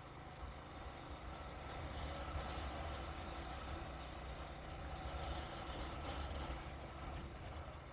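Motor vehicle running, a steady low engine rumble with road noise that swells about two seconds in and eases near the end.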